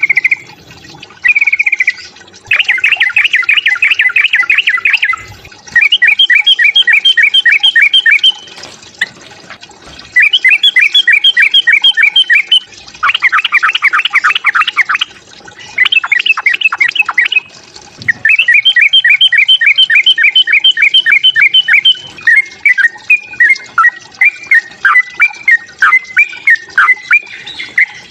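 Yellow-vented bulbul (trucukan) giving its agitated fighting call: loud bursts of fast, rapidly repeated chattering notes, several a second, each burst lasting two to three seconds with short pauses between, turning into a looser, warbling run of notes near the end.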